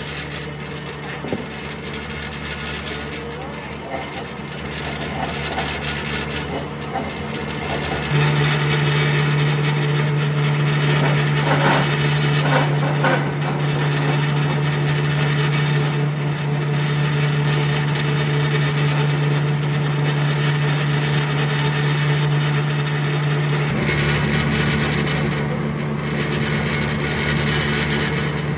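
Electric power tool running steadily and working wood, a motor hum under the noise of cutting or abrading. It becomes louder about eight seconds in and changes again near the end.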